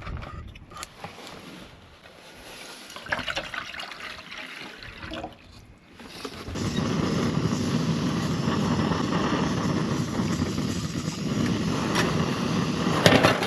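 Water poured into a pot, then a small camp stove lit about halfway through, its burner running with a steady rushing hiss to heat water for coffee.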